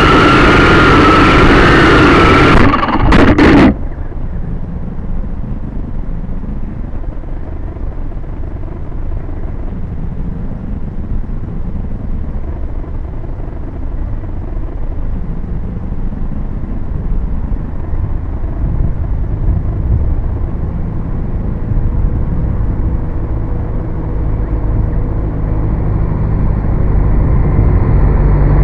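Syma X5C quadcopter's motors and propellers whining loud, stuttering as it crashes and cutting out about four seconds in. A low, steady traffic rumble follows, growing louder near the end as a truck approaches.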